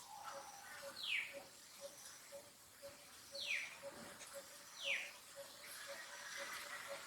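Baby macaque monkey crying: three short, high calls that slide down in pitch, about one, three and a half and five seconds in. A faint regular ticking, about two a second, runs underneath.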